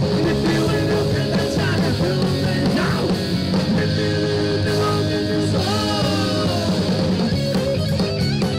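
Live rock band playing an instrumental break: electric guitar, bass and drums, with a sliding lead line over them.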